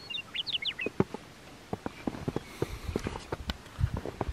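A small bird chirps a few quick times in the first second, followed by a run of irregular sharp clicks and soft knocks.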